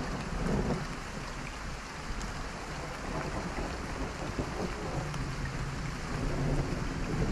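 Steady rain falling, with a low rumble of thunder underneath that swells and fades.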